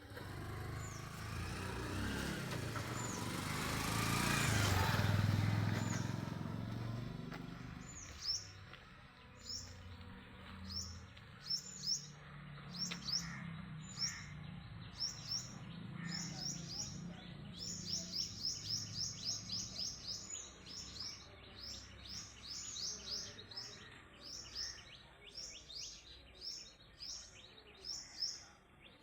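A bird chirping over and over with short high notes, at times in quick runs of several a second. During the first several seconds a broad rush of noise swells and fades, loudest about five seconds in.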